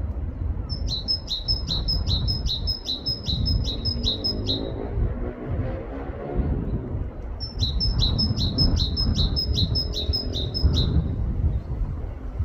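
Great tit singing its two-note 'teacher-teacher' song in two bouts of rapidly repeated phrases, about three a second, each bout about four seconds long, over a steady low rumble.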